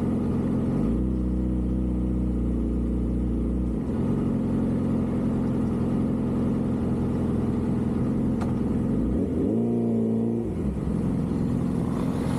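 Street traffic: vehicle engines running, one climbing in pitch about a second in and dropping back near four seconds, and another briefly rising and falling near ten seconds.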